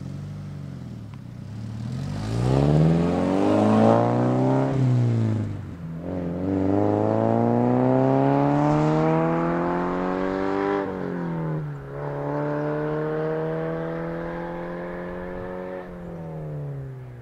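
Subaru BRZ's flat-four engine accelerating hard through the gears. The revs climb, then drop at an upshift about five seconds in and again about eleven seconds in. The engine then runs at a nearly steady pitch, and near the end the pitch falls and the sound fades as the car drives away.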